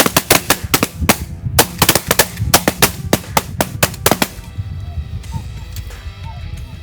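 A rapid volley of shotgun blasts from several hunters firing at once, many shots overlapping, ending about four seconds in. A low wind rumble runs underneath.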